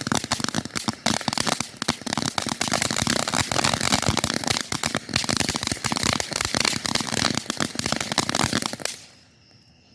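Showtime Fireworks 'Shazam' consumer firework crackling densely with rapid pops, then stopping abruptly about nine seconds in. Crickets are left chirping faintly after it stops.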